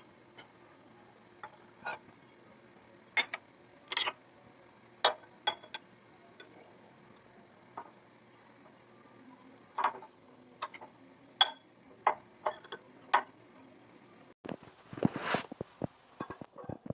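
Microwave oven running with a faint steady hum while the apple inside gives sharp, irregular pops. About fourteen seconds in the hum stops and a short burst of clattering and clicking follows.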